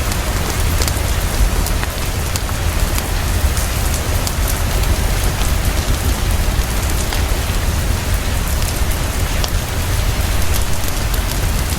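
Heavy, steady rainfall with a deep low rumble underneath and scattered sharp ticks throughout.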